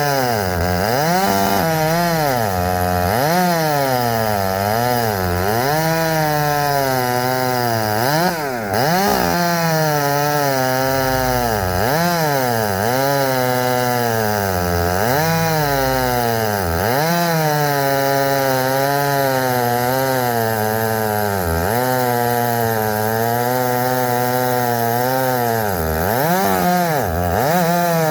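Gasoline chainsaw cutting poplar wood without a break. Its engine pitch sags and recovers again and again as the chain loads up in the cut.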